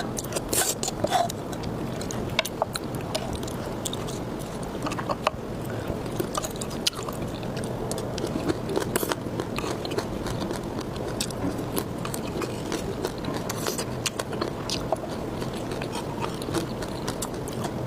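Close-miked eating: steady chewing and biting of food, with many short wet mouth clicks and smacks.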